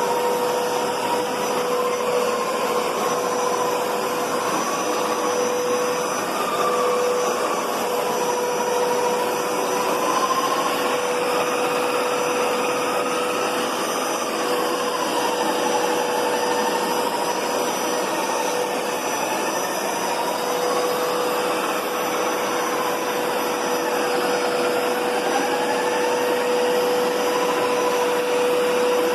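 Hoover Powerscrub Deluxe carpet cleaner running continuously: a steady motor whine over a hiss of suction, with a higher tone that drifts slowly up and down in pitch.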